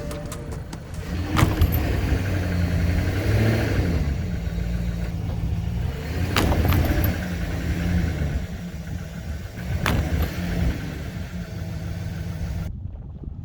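Small diesel tractor engine running under varying load, its revs rising and falling, with a few sharp knocks.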